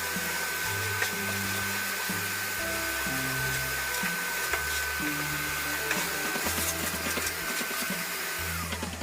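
A power tool motor running steadily with a high whine and hiss under background music, then spinning down with a falling whine and stopping near the end.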